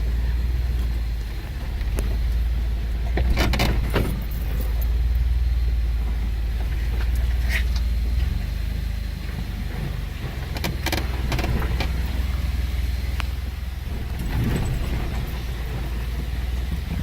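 Vehicle crawling down a rough, rocky off-road trail: a steady low engine and drivetrain rumble, with several short knocks and rattles along the way.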